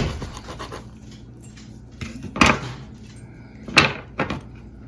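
Utensils knocking and clinking against dishware while meat is carved and served: four sharp knocks, one right at the start, one about two and a half seconds in and two near the end, over a faint steady low hum.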